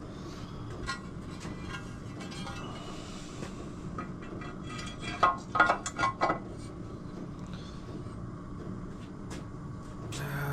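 Small metal parts and tools clinking: a quick run of about five sharp clinks around the middle, with a few lighter ticks before and after, over a steady low hum.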